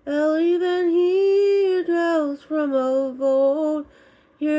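Mezzo-soprano female voice singing a wordless vocalise, a string of held, gliding notes with short breaks between them and a brief pause near the end.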